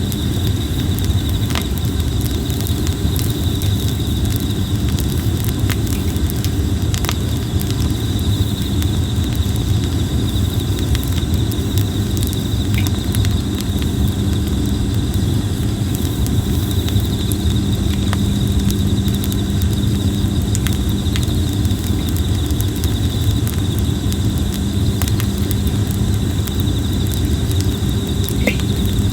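Red plum wood burning in a campfire, crackling with scattered sharp pops over a steady low rumble. A steady high insect chorus runs underneath.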